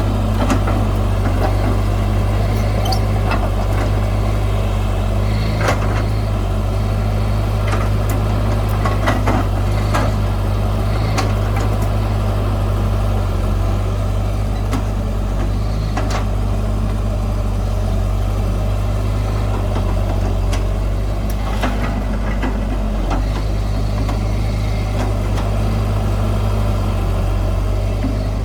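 Heavy earthmoving machine's diesel engine running steadily, with scattered sharp metallic clanks.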